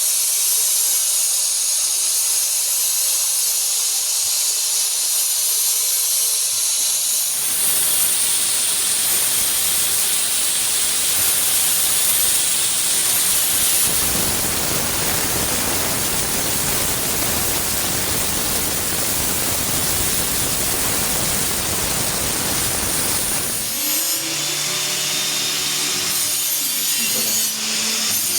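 Steam hissing steadily from a bottle sterilizing machine, swelling into a louder, fuller rush about seven seconds in and easing back near the end, when a low steady hum comes through.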